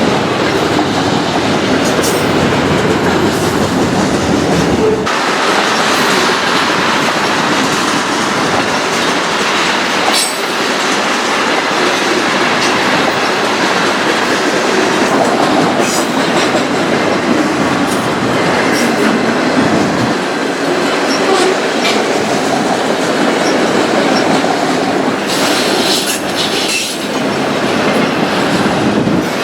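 A train's cars rolling past, steel wheels clacking over rail joints, with a steady rolling noise. The deep rumble drops away suddenly about five seconds in.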